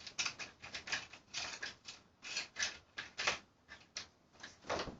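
Irregular crinkling and rustling of small packaging being handled: a quick run of short crackles, louder around the middle and near the end.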